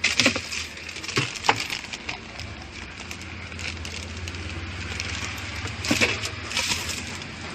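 Sharp clicks and knocks from a Polytron top-loading washing machine being handled, over a low steady hum that sets in about two and a half seconds in.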